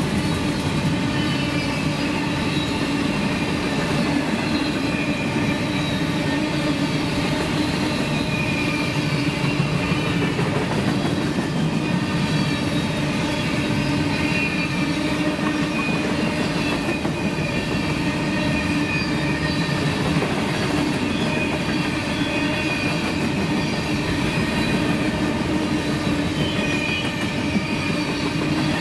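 Freight train of covered hopper cars rolling past at speed: a steady rumble of steel wheels on the rails, with a constant whine of wheel squeal running through it.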